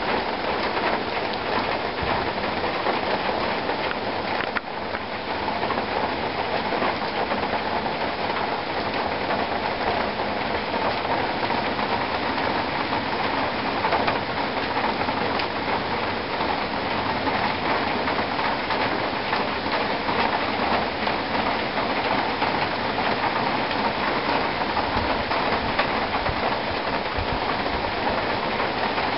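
Steady downpour of rain falling on leafy trees: an even, unbroken hiss of rain.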